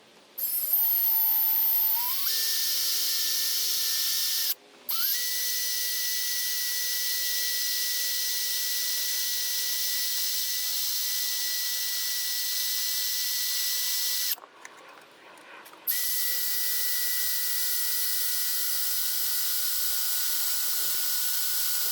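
Electric drill with a 1/4-inch bit boring a hole through a plastic panel: the motor whines up in pitch as it spins up, then runs steadily in three long runs, stopping briefly about four and a half seconds in and again about fourteen seconds in.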